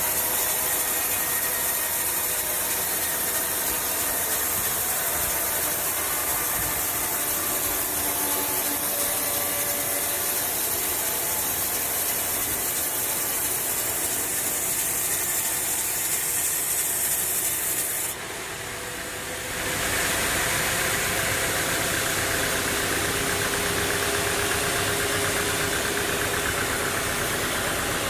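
Sawmill machinery running steadily with an engine-like drone. About two-thirds of the way through the sound dips briefly, then comes back with a different tone.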